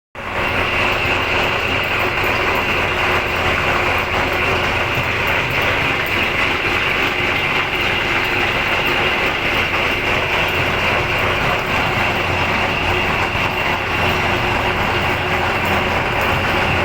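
Metal-turning lathe running steadily, giving an even mechanical drone with a strong hiss.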